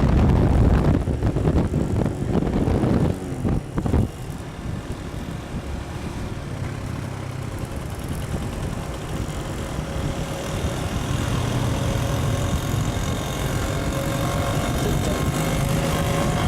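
Motorcycle running along a street with wind and road noise. It is loud for the first three seconds, with a couple of knocks a few seconds in, then settles to a steadier, quieter engine hum.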